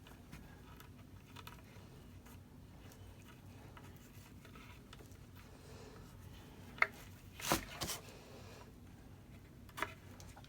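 Faint handling noises of a bungee cord being pulled through a hole in a wooden board and tied into a knot, with a sharp click about seven seconds in, a brief scrape right after, and another click near the end.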